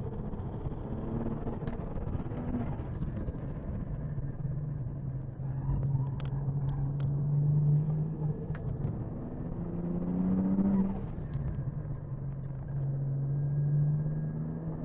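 BMW 1M's twin-turbo straight-six heard from inside the cabin at racing speed, the engine note climbing as it pulls out of corners, easing off about two-thirds of the way through, then climbing again near the end. A few sharp clicks sound over it.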